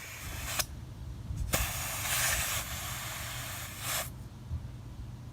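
Compressed air hissing from an air chuck pressed onto a Cub Cadet lawn tractor tire's valve, topping up the tire. There are two bursts: one ends about half a second in, and a longer one runs from about a second and a half to about four seconds, each starting and stopping sharply.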